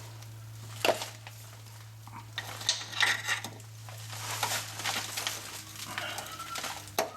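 Metal clinks and rattles of a steel parking brake cable end being worked and locked into its bracket, with a few sharp clicks. A steady low hum runs underneath.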